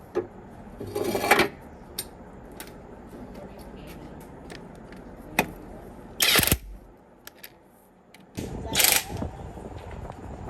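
Hand work on metal tractor parts: scattered sharp metallic clicks and clinks, with three short, louder noisy bursts of about half a second each.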